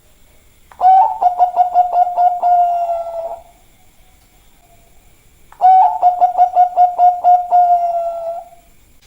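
Zebra dove (perkutut, Bangkok song line) cooing twice: each phrase a quick run of staccato coos at about five a second, ending in a drawn-out note that fades. The second phrase starts about five seconds after the first.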